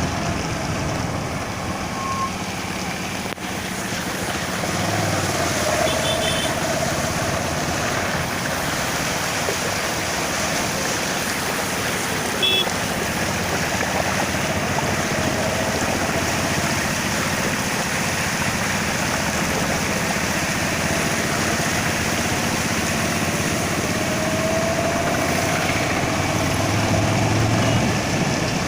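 Steady rushing noise of floodwater pouring across a highway, with a vehicle engine humming low underneath.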